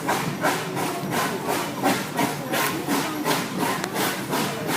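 Narrow-gauge steam locomotive chuffing, with even exhaust beats about four a second.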